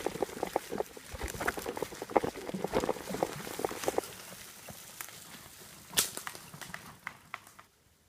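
Bicycle ridden off-trail through the woods: rapid clicking and crackling of sticks and dry leaves against the tyres and caught in the spokes. The clicks thin out after about four seconds, with one sharp crack about six seconds in.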